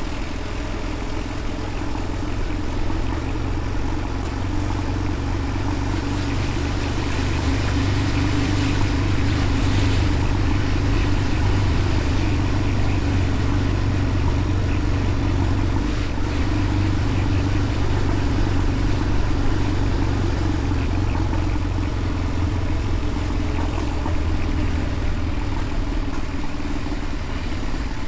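Motorcycle engine running steadily while riding, with rushing noise over the microphone. It gets a little louder over the first several seconds, then holds.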